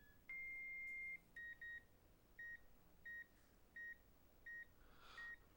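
Hospital bedside patient monitor sounding a faint alarm: one long beep, then short beeps about every two-thirds of a second, signalling that the patient is in distress.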